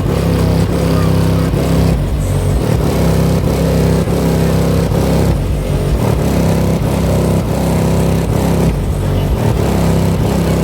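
A high-powered car audio system playing bass-heavy music very loud through its subwoofers, the bass notes pulsing in a steady rhythm.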